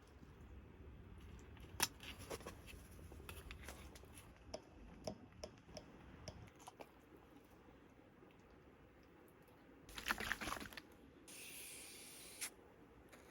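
Close-up handling noises: scattered small clicks and crinkling, as of packaging being handled or squeezed. A denser rustle comes about ten seconds in, then a steady hiss of about a second.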